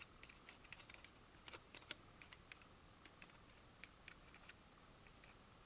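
Faint, irregular small clicks and taps of plastic model-kit parts and the glue applicator being handled on the workbench.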